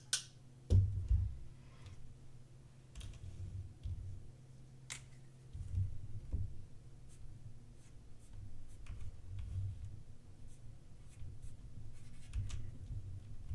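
Pen writing on paper in a logbook, with scattered light clicks and soft low bumps from handling.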